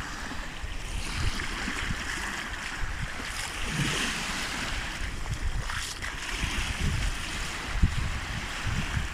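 Small sea waves washing onto the beach in a steady, swelling wash, with wind buffeting the microphone in gusts that grow stronger near the end.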